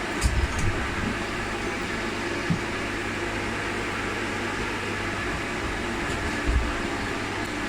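Steady machine hum, with a few low knocks.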